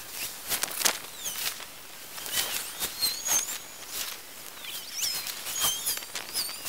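Birds chirping in short, high, quick calls, over a light background hiss with scattered sharp clicks and taps.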